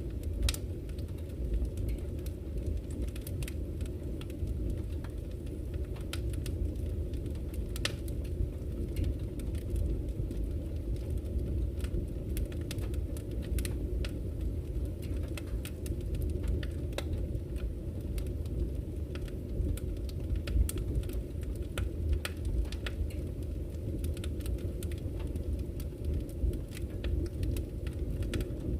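Wood campfire crackling with scattered sharp pops, over the steady low rush of a flowing river.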